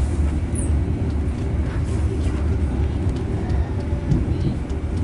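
KA Dhoho passenger train running along the track, a steady low rumble with faint scattered clicks.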